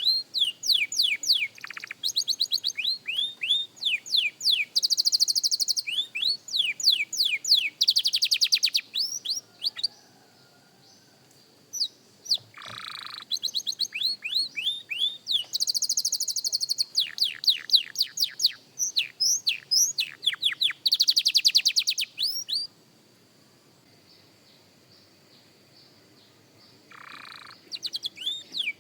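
Young canary singing practice song: high-pitched phrases of fast repeated notes and quick falling whistles, broken by two pauses of a few seconds, about ten and twenty-three seconds in.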